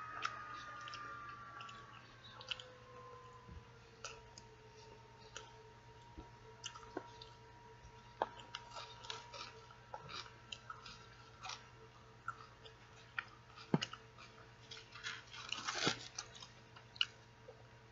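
Close-up wet chewing of a chicken taco, with scattered mouth clicks and smacks and a louder cluster of them about fifteen seconds in. A faint steady whine sits underneath.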